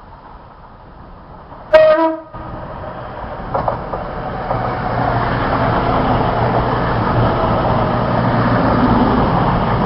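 A diesel train's horn gives a short, loud two-tone toot, a high note then a low one, about two seconds in. Then a Cross Country Voyager diesel unit comes through, its engine and wheel noise building to a steady rumble.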